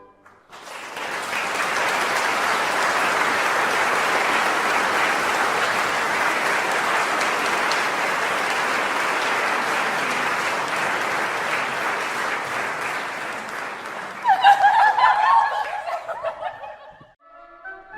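Audience applauding for about fifteen seconds, with voices calling out near the end as the clapping dies away.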